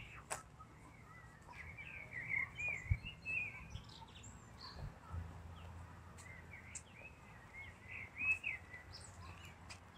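Small birds chirping and twittering in the trees, faint, in two spells: about a second and a half in, and again around eight seconds in.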